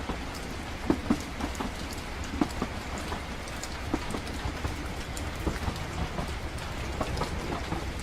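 Train ambience: a steady low rumble of a train running, with scattered irregular light taps and clicks over it.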